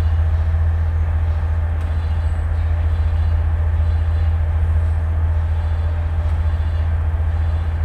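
A tugboat's diesel engines running with a steady, loud low drone while the boat manoeuvres alongside a barge.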